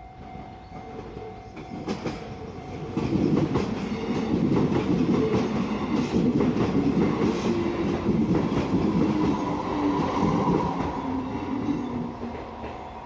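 A Kintetsu Yoshino Line train passing over a level crossing, its wheels clattering over the rails for about nine seconds from around three seconds in, then fading away. At the start, a steady tone from the crossing's warning signal is heard.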